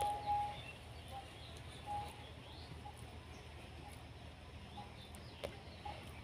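Faint, scattered bird chirps over a low steady hum, with one sharp click about five seconds in.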